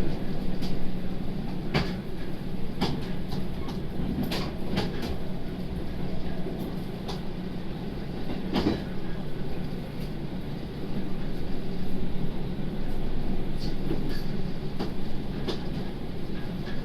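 Interior running sound of a JR Kyushu 811 series electric multiple unit on a rapid service: a steady hum and rumble, with a tone of about 200 Hz. Scattered sharp clicks and knocks from the wheels and car body come through it.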